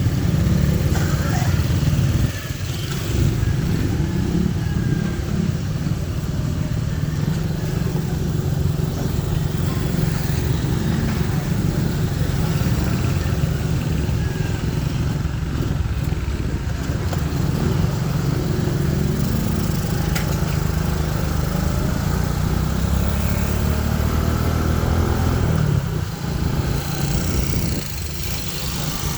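Motorcycle engine running steadily, as on a ride. The level drops about two seconds in and again near the end.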